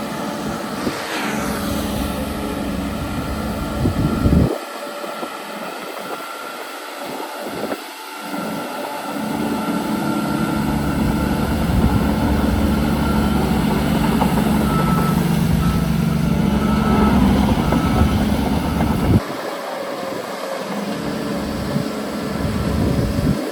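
Heavy diesel engines of construction machinery running under load. The sound changes abruptly about four seconds in and again near the end, and is loudest in the middle stretch.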